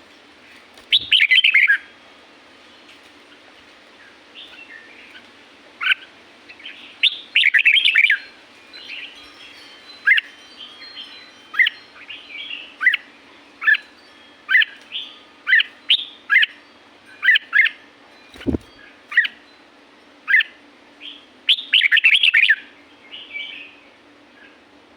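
Red-whiskered bulbul singing: three loud warbling phrases, with short sharp notes about once a second between them. A single low thump a little past the middle.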